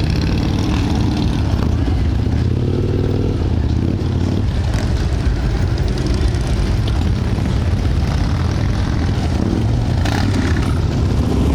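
Motorcycle engines running steadily together, a continuous low-pitched engine sound with no pauses.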